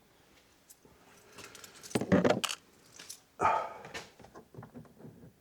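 Small metal parts of a disassembled security lock clicking and clinking as they are handled, in a few short clusters with a louder rattle about three and a half seconds in.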